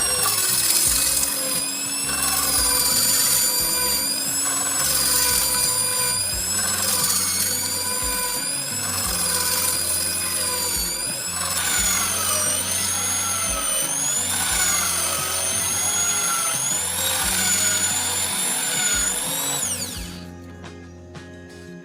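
Small electric power tool motor whining, its pitch wavering up and down, then winding down and stopping near the end. Background music underneath.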